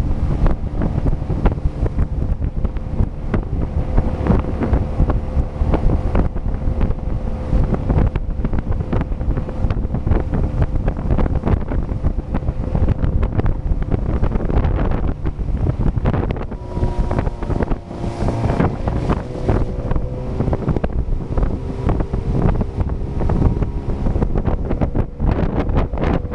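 Motorboat engine running at speed, with heavy wind buffeting on the microphone and water rushing past the hull. From about two-thirds of the way in, the engine's pitch shifts and its tone becomes more prominent.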